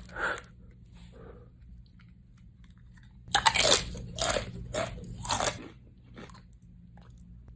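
Close-up crunching as someone bites and chews a crisp tortilla chip, the spicy One Chip Challenge chip: four loud crunches bunched about halfway through, with fainter mouth sounds before them.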